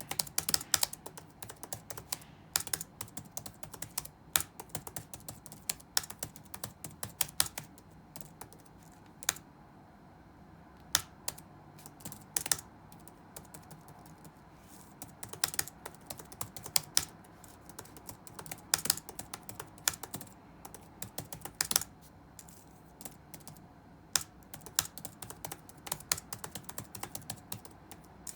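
Touch typing on a computer keyboard: quick keystrokes come in uneven runs with short pauses between, and a few single keys are struck harder and louder.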